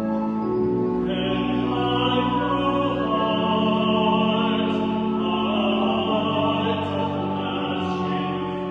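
A solo voice singing a hymn over sustained pipe-organ-style chords, held notes throughout, with a new sung phrase starting about a second in.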